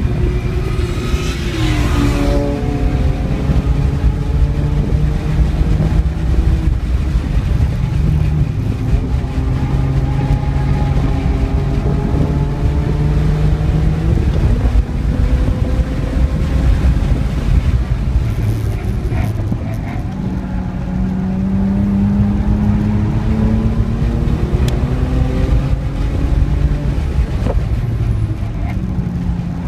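Cabin sound of a BMW 335i's turbocharged straight-six under hard driving on a race track: the engine note climbs under acceleration and drops sharply several times as the driver shifts or brakes, over steady road and wind noise.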